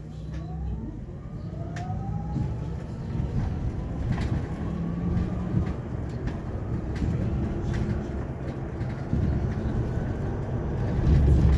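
Hyundai Elec City electric bus pulling away and gaining speed, heard inside the cabin: the drive motor's whine glides up in pitch over the first few seconds, over a low road rumble that grows louder, with scattered rattles and clicks from the bus body.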